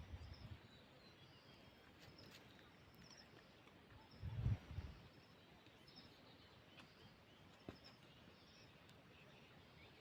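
Faint hillside ambience with scattered small, high bird chirps, and a brief low rumble about four seconds in.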